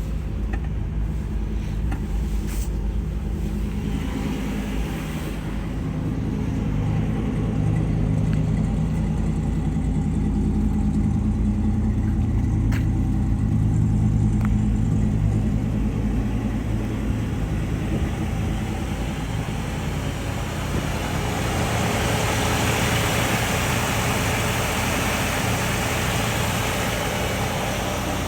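1958 Chevrolet Impala engine running steadily at idle shortly after a cold start; it runs smoothly. A broader rush of noise comes in about two-thirds of the way through, and there is a single click near the middle.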